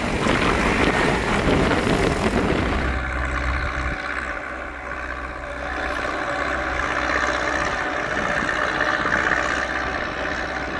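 Zetor tractor's diesel engine running steadily. A rushing noise lies over it for about the first three seconds, then the engine's even hum stands out alone.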